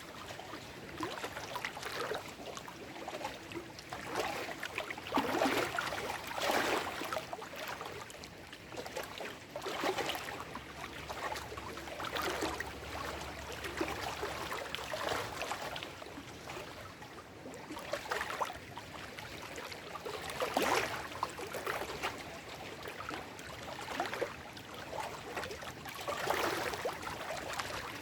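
Small lake waves washing over shoreline rocks, with irregular splashes every few seconds over a steady lapping of water.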